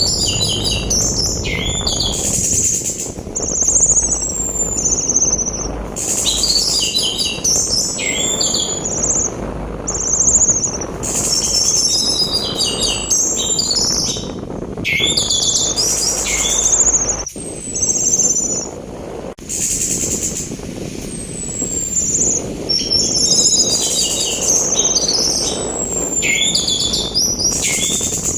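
Orange-headed thrush song: repeated phrases of high whistles, descending slurs and quick rattling trills, laid over a steady rushing sea-wind noise. The wind noise cuts out abruptly about 17 seconds in and comes back about two seconds later.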